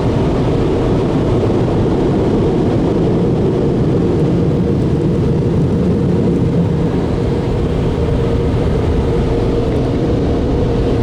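Car wash air dryer blowers running: a loud, steady rushing noise with a constant hum.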